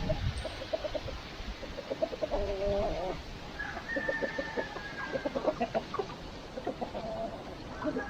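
A flock of chickens clucking: many short, repeated calls, with a few longer drawn-out notes among them.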